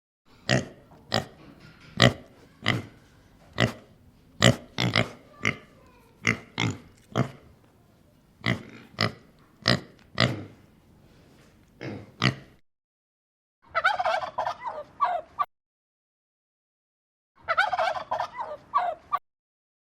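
Bird calls: a run of short, sharp single calls about one and a half a second, then two bursts of rapid, rattling calls near the end.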